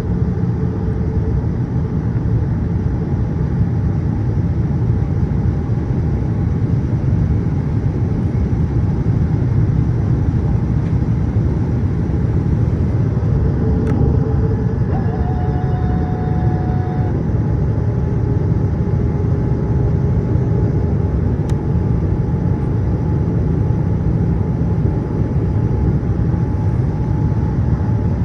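Steady low drone of a Boeing 787-8 airliner in flight, engines and rushing air heard as one constant rumble, with a brief faint tone about halfway through.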